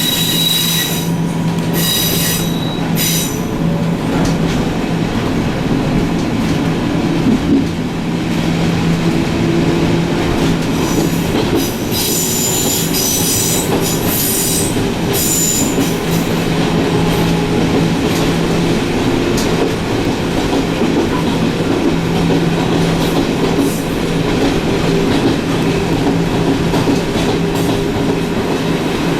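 Electric railcar running on the line, heard from inside: steady motor hum and wheel rumble on the rails, with high wheel squeal in the first few seconds and again around halfway.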